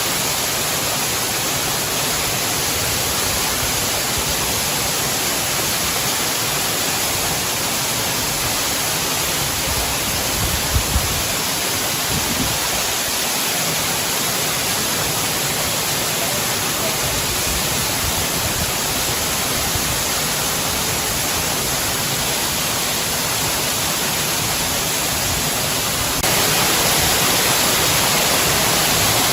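Waterfall rushing: a steady, unbroken wash of falling water. There are a couple of brief low thumps about ten seconds in, and the sound grows slightly louder near the end.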